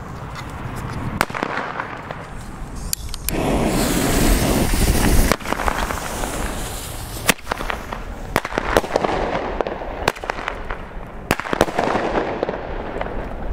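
Small ground fireworks going off one after another, each a long hissing rush of sparks, the first about three seconds in and the loudest. Sharp cracks of firecrackers go off among them.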